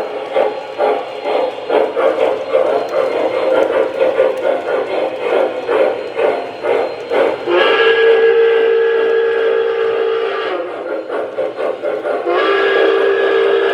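Steam locomotive working with rhythmic exhaust chuffing, then two long blasts of its steam whistle, the first a few seconds long about halfway through and the second starting near the end.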